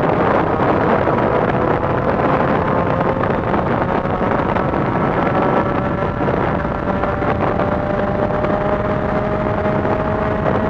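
Triumph Street Triple's 675 cc inline-three engine running through an aftermarket Coffman's exhaust while riding, a steady tone whose pitch climbs slowly as the bike gathers speed, with wind noise on the helmet microphone.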